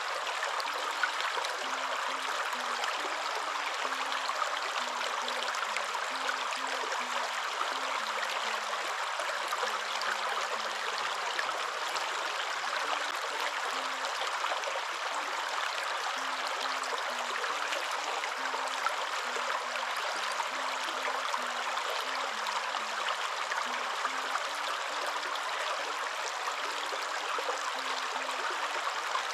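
Waterfall: a steady, even rush of falling water. Faint low tones step up and down in pitch underneath it.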